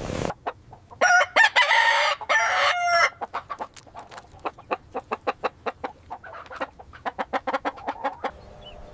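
A rooster crows once for about two seconds, then clucks in a rapid run of short notes, about five a second, which stops shortly before the end.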